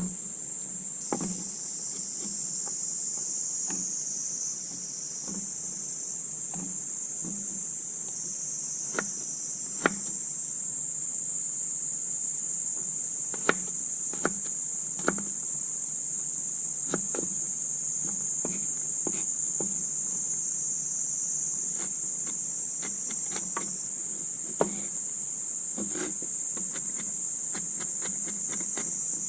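Steady high-pitched chorus of insects, with scattered sharp clicks and pops at irregular intervals.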